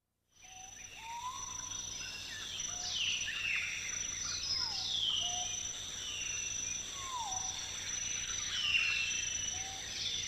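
Tropical rainforest ambience: a steady high insect drone under repeated bird whistles, several sweeping down in pitch, with short, lower whistled notes in between. It fades in at the start.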